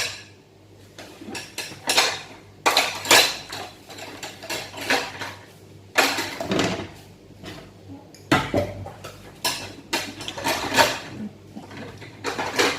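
A small child washing dishes: a plate and a spoon clink and clatter against each other and the sink in irregular knocks, some in quick clusters.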